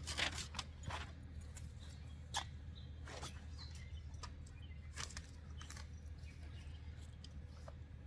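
Faint scattered clicks and rustles of a trampoline safety net and its fittings being handled and laid out, over a low steady hum.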